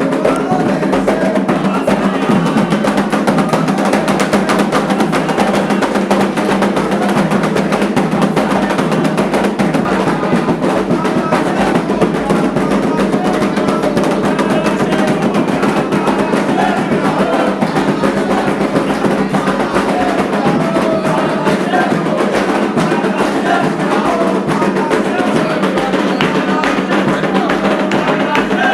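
Candomblé ritual music: atabaque hand drums played in a steady, dense rhythm, with voices singing over them.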